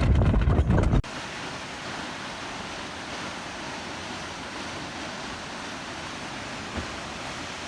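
A loud, rough clip cuts off abruptly about a second in, giving way to a steady, even rush of water.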